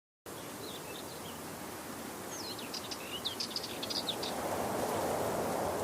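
Outdoor ambience with small birds chirping: a few faint calls early, then a quick series of high chirps about two to four seconds in, over a steady rushing background noise that swells near the end.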